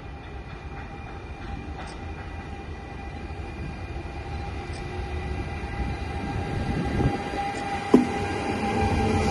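Electric train approaching through a station, growing steadily louder, with a steady whine of several tones and a single sharp knock near the end.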